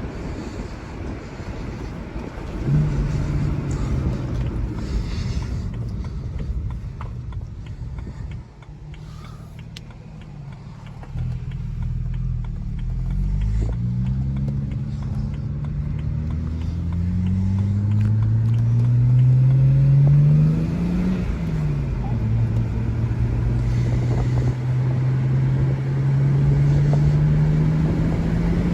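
2007 BMW 335xi's twin-turbo 3.0-litre inline-six (N54), breathing through an Injen cold air intake with the stock exhaust, accelerating hard through the gears. The engine note climbs in pitch, falls away about 8 and 21 seconds in, then climbs again.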